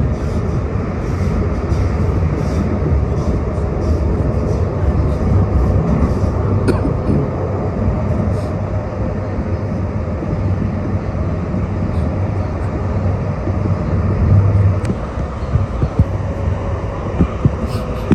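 CTrain light rail train running: a steady low rumble, with a few sharp clicks scattered through and a faint steady whine near the end.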